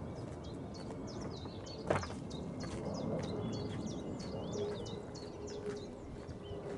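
Small birds singing in quick, repeated high chirps over a low, steady outdoor rumble, with one sharp click about two seconds in.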